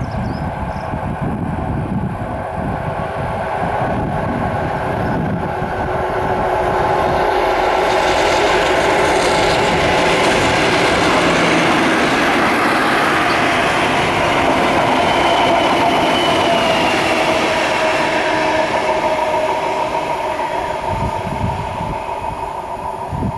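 Class 50 diesel locomotive 50008 Thunderer, with its English Electric 16-cylinder engine, passing with a rail grinder train. The steady engine note and rumble grow louder to a peak in the middle and then fade.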